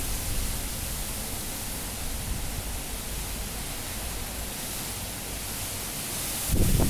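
Cyclone-force wind blowing as a steady, even rush of noise. Near the end a stronger gust hits the phone's microphone as a short, low buffet.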